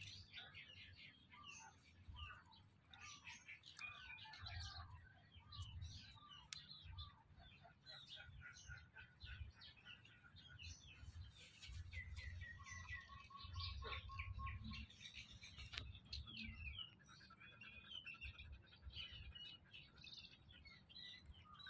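Faint birdsong: many small birds chirping in short overlapping calls, with a few longer held whistle notes about halfway through, over a low rumble.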